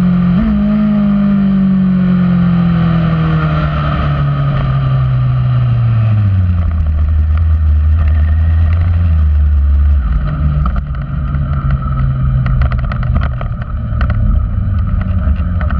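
Kawasaki racing superbike's engine heard onboard, its revs falling steadily over about six seconds with a quick blip under a second in, then running at low revs, choppier in the last few seconds with scattered clicks: the bike slowing down.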